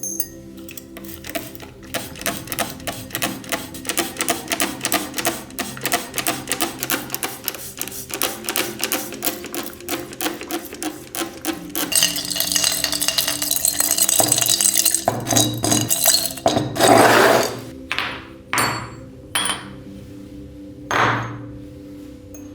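Workshop hand-work on small metal tool parts: a run of quick sharp clicks, about four a second, then a hissy scraping burst and a few separate rubbing strokes, over soft background music.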